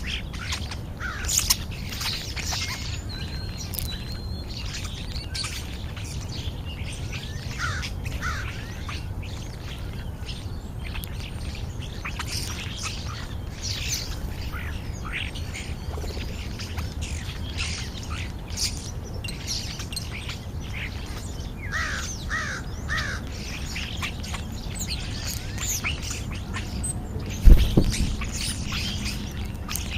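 A flock of European starlings chirping, whistling and squawking, many short calls overlapping, over a steady low rumble. A single loud thump comes near the end.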